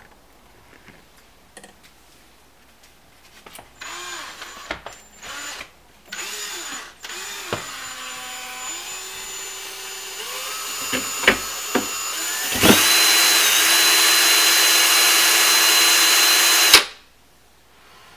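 Power drill boring a hole through a kitchen cabinet panel for the dishwasher's pipes. A few short trigger bursts with the motor spinning up, then a steady run that gets much louder about twelve and a half seconds in and cuts off suddenly near the end.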